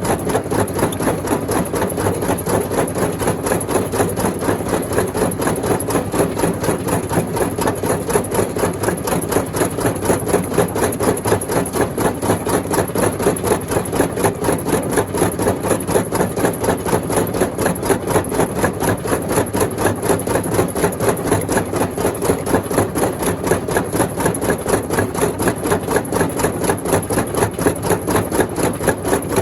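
Rock crusher machine running steadily, a mechanical drone with a fast, even pulse of knocks.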